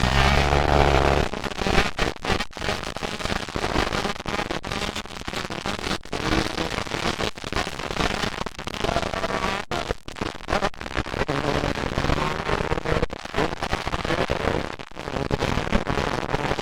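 Dirt bike engines racing on a motocross track, with a dense, rapid crackle of exhaust pops and engine notes rising and falling.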